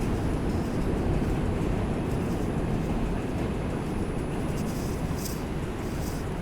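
Steady rumble and hiss inside an R142 subway car on the 5 line, with a few short faint high hisses near the end.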